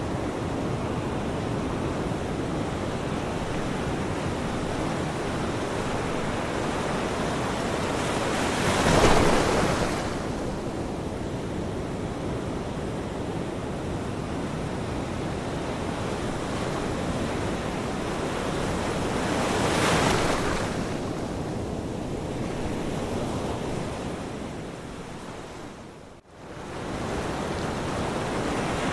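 Ocean waves washing on a shore, a steady surf with two louder waves about nine and twenty seconds in. The sound drops away sharply for a moment a few seconds before the end, then returns.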